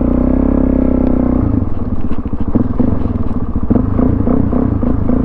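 Suzuki DRZ400 supermoto's single-cylinder four-stroke engine with a Yoshimura exhaust, running under way. It is steady at first, turns choppy and uneven from about a second and a half in for a couple of seconds, then steadies again.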